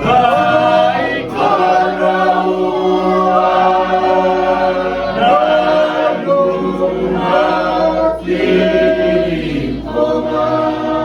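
A group of people singing together in harmony, holding long notes that change every second or two.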